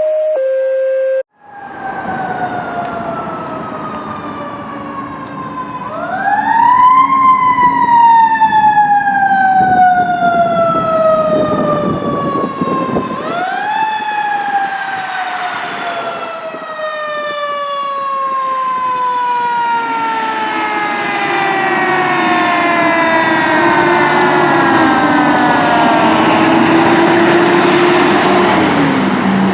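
2010 Pierce Arrow XT tower ladder fire truck's mechanical siren, spun up twice with a quick rising howl. After each spin-up it gives a long, slowly falling wail as it coasts down. A lower wavering tone joins in over the last several seconds as the truck comes closer.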